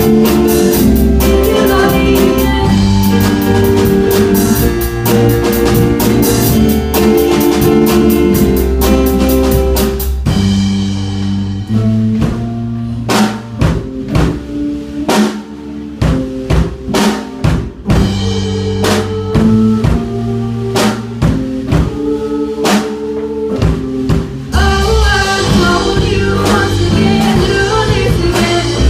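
Band playing rock music with drum kit, bass and guitar. About ten seconds in, the steady groove drops to separate stop-time hits with gaps between them; the full band comes back in near the end.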